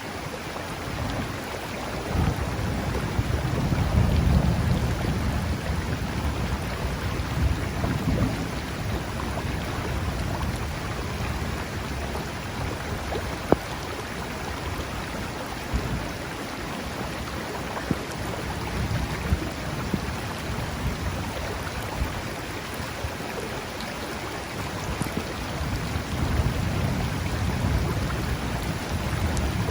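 Thunderstorm over a river: steady hiss of rain and rushing water, with deep thunder rolling a couple of seconds in for several seconds and building again near the end.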